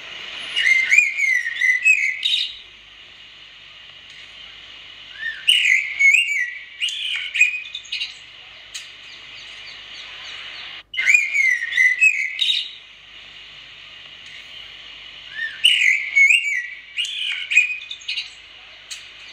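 A songbird singing in short, quick whistled phrases of about two seconds each. The phrases come four times, roughly five seconds apart, over a steady high hiss.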